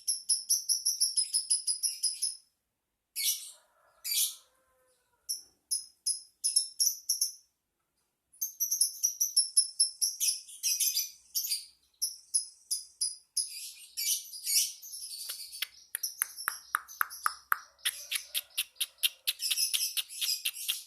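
Lovebird singing a long, rapid, high-pitched chattering trill in runs broken by short pauses, turning to a faster string of sharp clicking notes in the second half.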